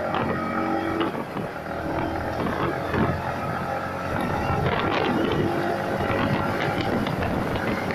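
Yamaha MT-15 V2's 155 cc single-cylinder engine running under acceleration on the move, with an upshift from fourth to fifth gear.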